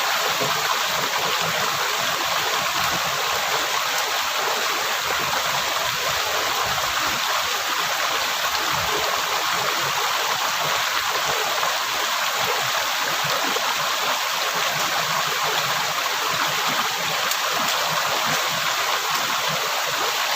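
River water flowing, a steady rush of water.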